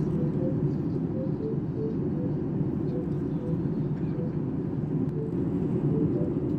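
Steady cabin noise of a Boeing 737 MAX airliner in flight, the jet engines and airflow making a constant low rush, during the descent before landing.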